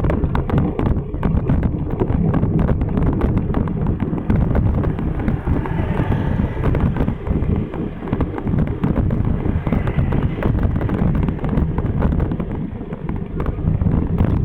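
Wind buffeting the microphone while cycling: a continuous low rumble with a dense run of small clicks and rattles.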